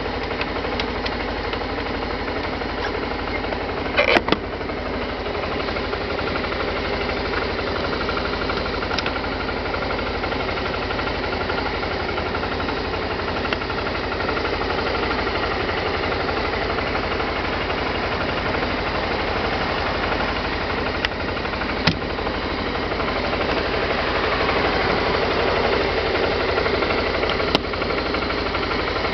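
Suzuki Skywave 250 FI scooter's single-cylinder engine idling steadily. A couple of sharp clicks come through, about four seconds in and again past twenty seconds, and the engine note swells slightly near the end.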